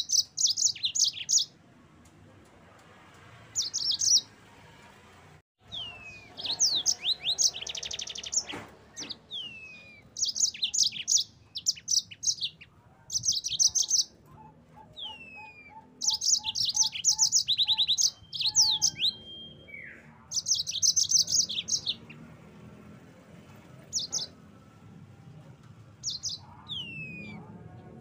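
Yellow-fronted canary (Mozambique canary) singing: repeated short bursts of rapid, high trills and down-slurred whistles, separated by brief pauses.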